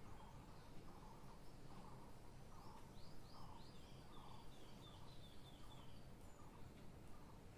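Faint bird calls: a short note repeated roughly every three-quarters of a second, joined about three seconds in by a quick run of high chirps, each sliding downward.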